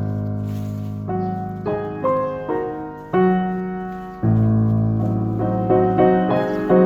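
Background music: solo piano playing a slow, gentle melody over sustained low notes, each note struck and fading.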